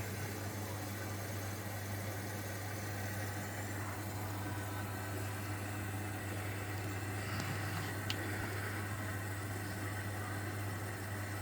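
Zanussi washing machine running through a wash cycle: a steady motor hum with an even hiss, and one light click about eight seconds in.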